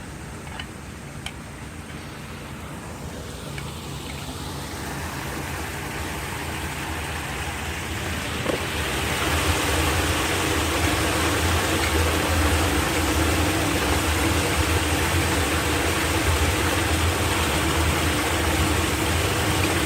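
Floodwater rushing down into a street storm drain, a steady wash with a low rumble underneath that grows louder and then holds steady from about halfway in.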